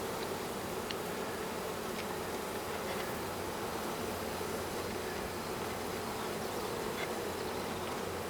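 A swarm of honeybees buzzing steadily, a dense, even hum of many bees together, with a few faint ticks over it.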